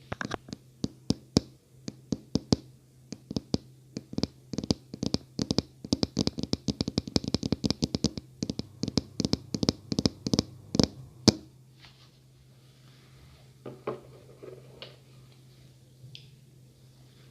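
ASMR fingertip and fingernail tapping: quick, irregular taps several times a second that stop about eleven seconds in, leaving only a few faint, soft touches. A steady low hum runs underneath.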